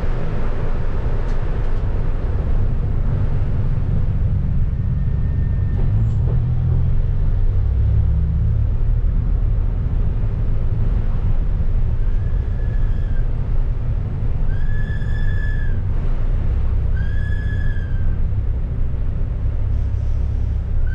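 Ford Focus ST race car's engine running at low revs, heard inside the cabin as a steady low rumble. About twelve seconds in, a high electronic warning beep sounds three times, each about a second long, and starts again steadily at the very end.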